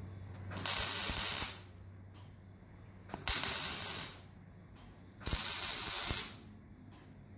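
A welder stitch welding thin sheet steel in three short bursts of about a second each. Each is a hissing crackle that starts and stops sharply, over a steady low hum.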